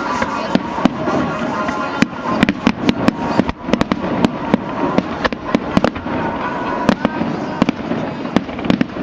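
Fireworks show: many sharp, irregular bangs and crackles of shells bursting, several a second, over a steady rumble, with show music playing faintly underneath.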